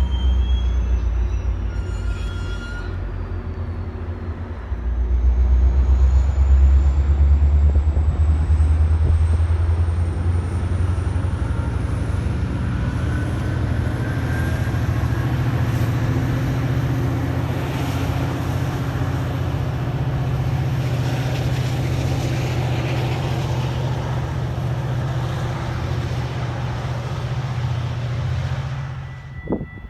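Train passing on the line, a loud, steady low rumble that grows louder about five seconds in, with a thin high whine slowly rising in pitch over it; it cuts off abruptly near the end.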